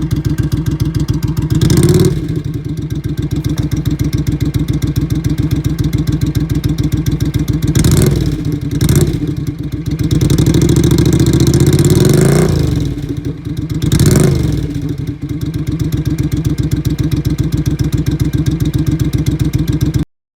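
Suzuki Intruder Classic 400's V-twin idling with a steady pulse through a Kentec fishtail aftermarket muffler. Short throttle blips come about two seconds in, twice around eight to nine seconds, and again near fourteen seconds, with a longer rev that climbs and drops back around ten to twelve seconds. The sound cuts off suddenly just before the end.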